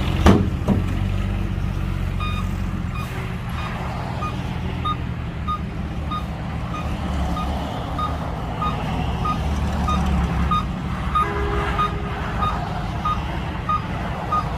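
Backup alarm of a heavy diesel machine beeping steadily, a little under twice a second, over the deep running of its diesel engine; a sharp knock sounds just after the start.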